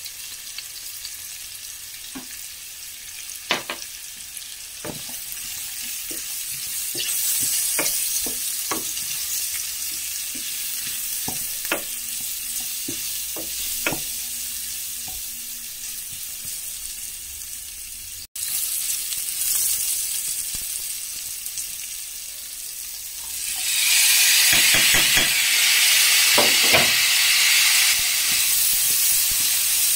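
Mushrooms and red onion frying in a hot metal pot, sizzling, while a wooden spatula stirs and knocks against the pan. About 24 s in the sizzle jumps much louder and stays loud, as chopped carrots and asparagus go into the hot oil.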